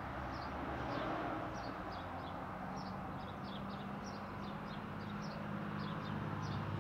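Small birds chirping, short high calls repeated two or three times a second, over a steady low background hum.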